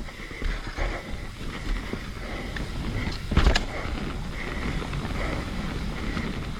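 Mountain bike rolling down a wet, slippery trail: tyres on dirt, the bike rattling over the ground, with a few small knocks and one sharp, loud knock about three and a half seconds in.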